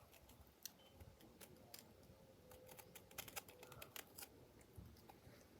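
Faint, scattered clicks and crunches of hard, partly burnt food being chewed.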